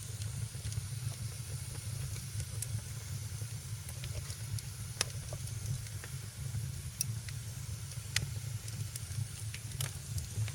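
Wood fire crackling in a fireplace: a steady low rumble and hiss of the flames, broken by sharp pops every second or two, the loudest about five and eight seconds in.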